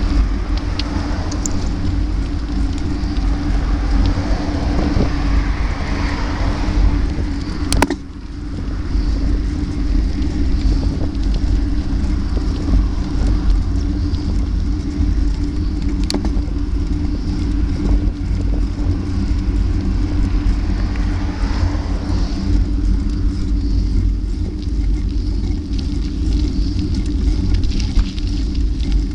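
Heavy wind rumble on the microphone of a moving bike, over steady road noise, easing off for a moment about eight seconds in.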